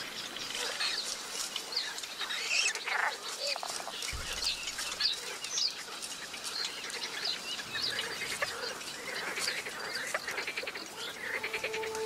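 Small birds in a reedbed chirping and calling: many short high squeaks and chirps, with bursts of rapid ticking trills.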